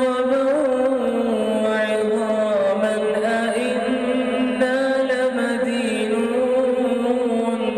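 A male imam reciting the Quran in a slow melodic chant, holding long drawn-out notes that glide and turn gently in pitch.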